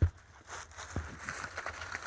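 Footsteps crunching and rustling through underbrush, with scattered light crackles and a soft knock about a second in.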